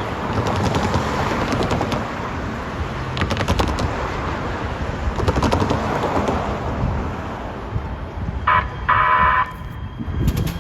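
A Metro rail train running past, a loud rumble with groups of rapid clicking from the wheels. Near the end comes a short horn blast, then a longer one of about half a second.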